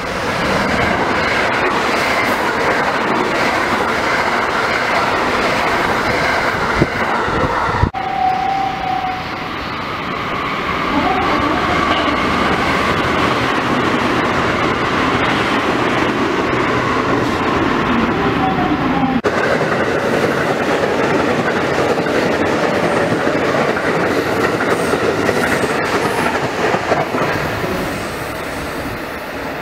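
JR West electric express trains passing through stations at high speed, one after another: a loud, steady running noise of wheels on rails that changes abruptly twice as a new train passes. A short, steady tone sounds just after eight seconds in.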